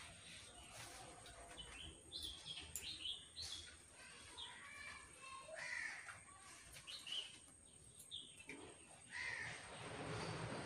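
Birds calling in scattered short chirps and calls over faint background noise.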